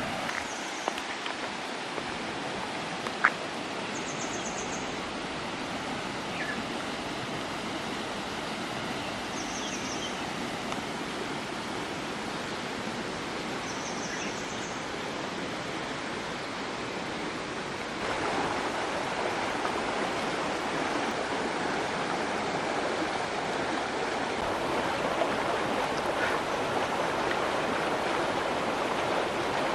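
A river's steady rushing flow, rising in level about two-thirds of the way through. A few short, high chirps sound over it in the first half.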